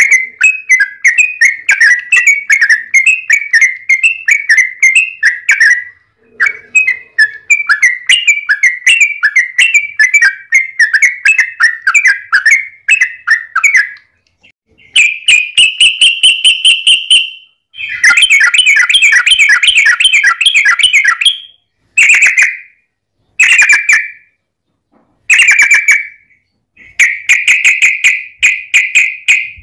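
Yellow-vented bulbul (trucuk) singing loud, rapid chattering rolls of notes, in several long bouts broken by short pauses, with a few brief bursts near the end.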